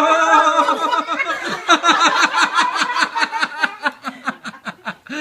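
A drawn-out excited shout of "oh!", then rapid laughter in quick repeated "ha" pulses, about five or six a second, fading near the end: a burst of excitement and laughter as the loose tooth comes out.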